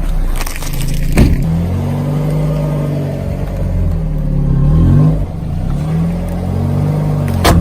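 Car engine revving up and down in repeated swells, with a sharp crunching crack about a second in and more cracks near the end.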